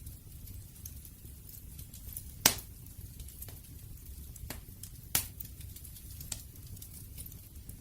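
Campfire crackling: scattered sharp pops of burning wood over a low, steady rumble of the flames. The loudest pop comes about two and a half seconds in, and another a little after five seconds.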